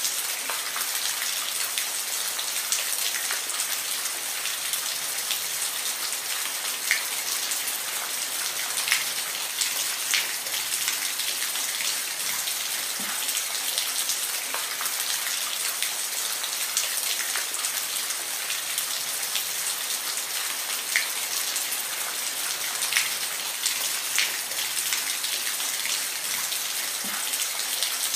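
Steady rain falling, an even hiss of many drops with occasional louder individual drips standing out.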